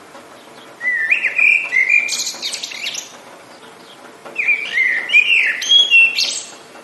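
A songbird singing two phrases about a second and a half apart. Each phrase is a few clear whistled notes followed by a higher, buzzy run. A faint steady hiss lies underneath.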